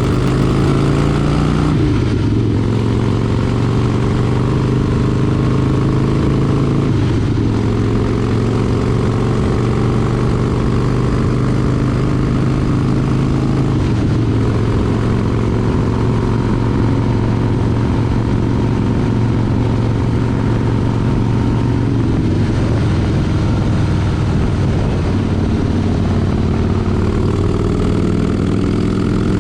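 Motorcycle engine running under way, its note steady for stretches, dropping a few times and climbing again near the end as the bike slows and speeds up.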